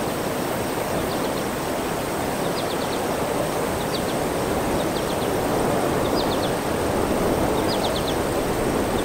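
Outdoor ambience: a steady rushing noise, with a bird repeating short high chirps in quick runs of three or four, about once a second.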